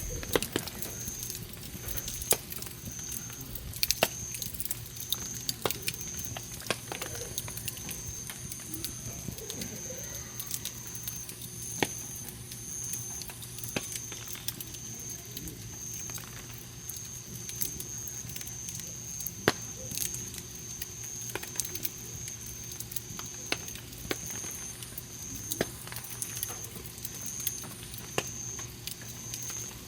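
Wood campfire crackling, with sharp pops at irregular moments. Behind it, a high pulsing note repeats about once a second.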